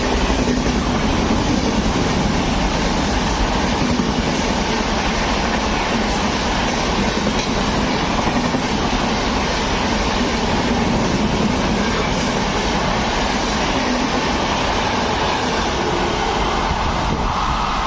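Train running on the rails: a steady, loud rumble and rattle of wheels and carriages.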